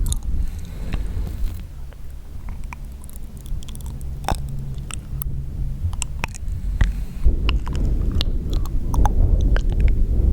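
Close-miked wet mouth sounds: irregular sharp clicks and smacks of lips and tongue, over a low rumble.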